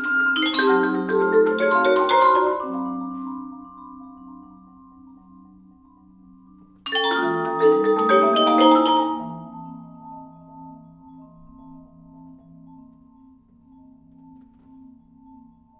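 Vibraphone and two marimbas playing two quick cascades of mallet notes, the second about seven seconds in, each left ringing and slowly fading into sustained tones.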